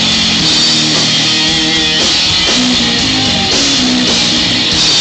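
Live rock band playing at full volume: distorted electric guitar, bass and drum kit, with no vocals, typical of an instrumental passage or guitar solo.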